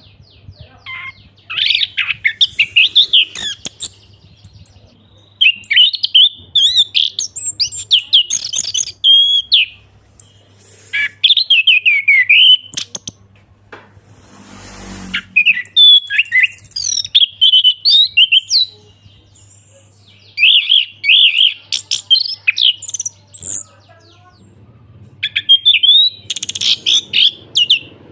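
Orange-headed thrush singing loudly in bursts of rapid, varied warbling phrases a few seconds long, separated by short pauses. A brief rushing noise breaks in about halfway through, and a faint steady low hum runs underneath.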